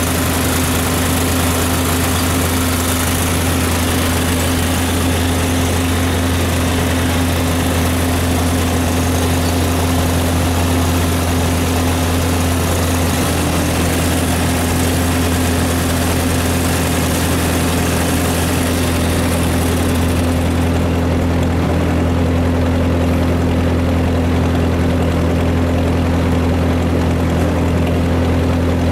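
Steady, loud mechanical drone with a constant low hum, unchanging throughout; the highest hiss drops away about two-thirds of the way through.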